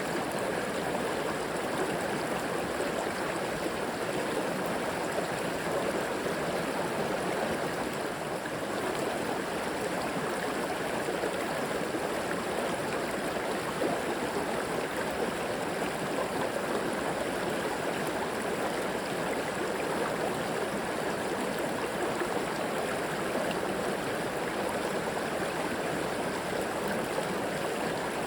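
River water flowing steadily, a continuous rushing with some gurgling.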